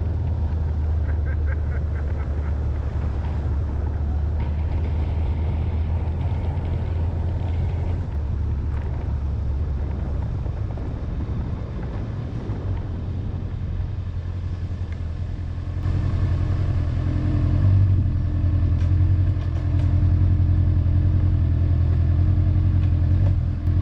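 Honda motorcycle engine running steadily while riding, a low continuous hum that grows louder, with a fuller note, about two-thirds of the way through.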